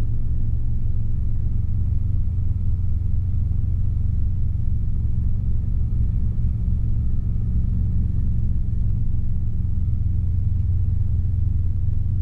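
Robinson R22 helicopter heard from inside the cabin: a steady low drone of engine and rotor, unchanging in level.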